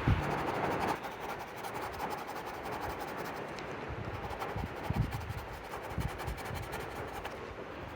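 Wind buffeting the microphone, with a fine rapid scratching from about a second in until near the end.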